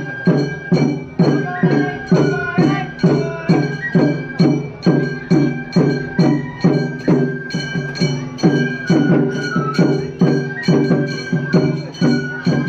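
Festival hayashi music from a float's musicians: small hand gongs (kane) struck in a fast, even beat of about three strikes a second, with a bamboo flute playing a held, wavering line above.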